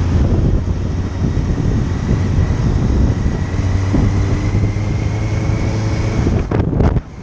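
Motorcycle engine running at a steady speed with heavy wind noise on the microphone. The level drops suddenly near the end.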